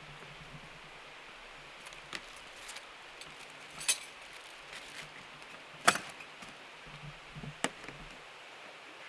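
A few short, sharp metallic clinks and knocks, the loudest about six seconds in, as the cast-iron parts of a Lodge Kickoff charcoal grill are handled. A faint steady hiss lies underneath.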